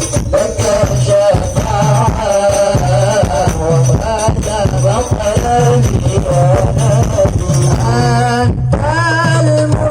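Loud music with a singing voice and a heavy, pulsing bass beat, played through a large outdoor sound system. It drops out for a moment near the end.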